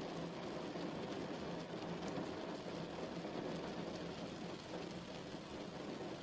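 Steady rain falling, a continuous deep hiss with faint scattered patter of drops.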